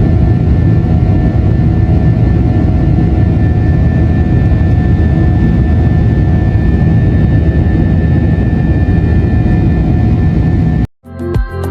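Airbus A321's IAE V2500 jet engines running steadily, heard from inside the cabin as a loud, even rush with a steady whine. Near the end it cuts off abruptly and music with plucked notes begins.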